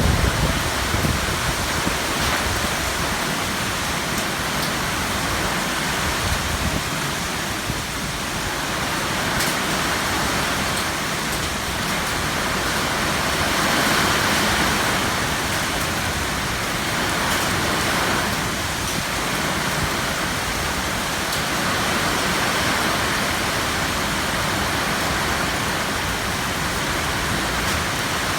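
Heavy rain pouring steadily, a dense hiss that swells and eases a few times. A gust of wind buffets the microphone at the very start.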